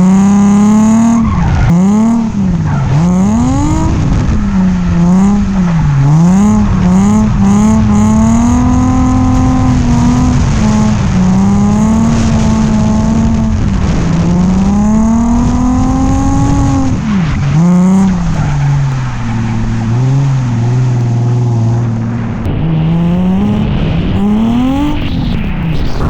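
Nissan 350Z's V6 engine driven hard through a drift run, the revs swinging up and falling every second or two. About three-quarters of the way in it settles briefly to a lower, steadier note, then climbs again near the end.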